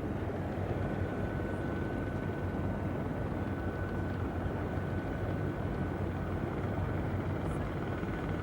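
A steady engine drone with a low hum, and a thin high tone that comes in about a second in and holds.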